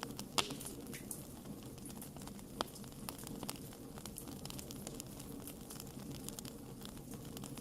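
Wood campfire crackling: many small, sharp pops and snaps over a steady low rush, with two louder pops about half a second and two and a half seconds in.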